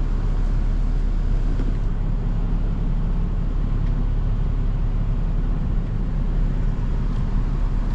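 Steady low rumble of a Dodge pickup truck's engine and tyres heard from inside the cab while it is driven on a test drive.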